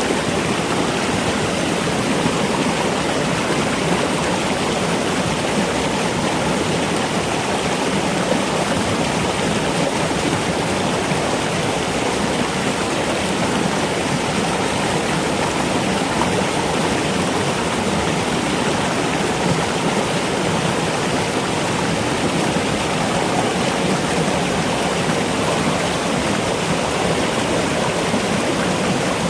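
Steady rushing of flowing water, like a stream, even and unbroken throughout.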